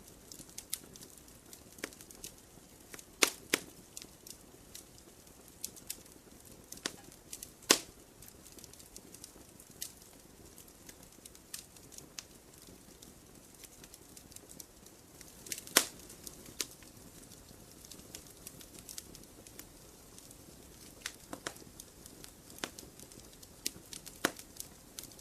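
Wood campfire crackling: irregular sharp pops and snaps over a soft steady hiss of burning, a few pops louder than the rest, about 3, 8 and 16 seconds in.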